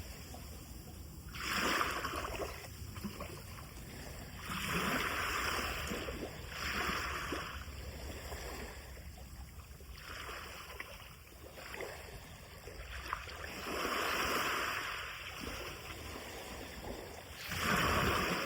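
Sea of Japan surf breaking and washing up the shore, a steady hiss that swells into a louder rush every two to four seconds.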